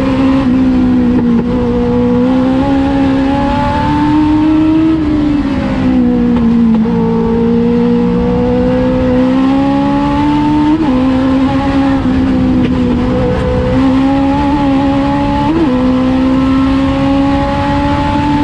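Legends race car's Yamaha 1250 cc four-cylinder motorcycle engine running hard at near-steady high revs. Its pitch sags a little for a few seconds partway through, then slowly climbs back.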